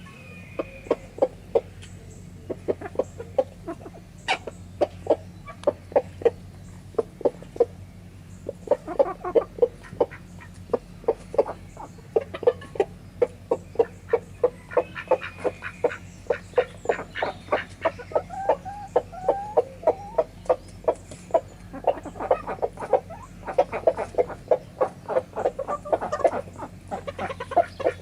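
Backyard chickens feeding, with many short, quick clucks following one after another and a few sharper ticks.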